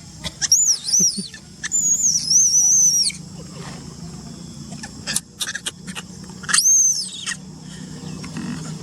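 Infant monkey giving high-pitched squealing calls: three arching cries in the first three seconds, the middle one long, and another cry near the end. A few sharp clicks sound between the cries.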